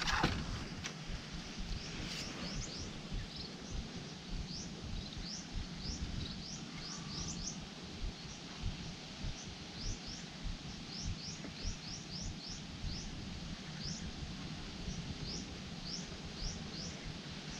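Small birds chirping again and again, each call a short, quick rising high note, over a low rumbling noise. There is a brief sharp knock at the very start.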